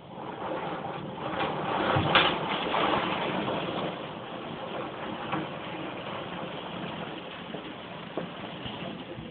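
Thunder: a rumble swelling in over about two seconds to a sharp crack, then rolling on and slowly easing off.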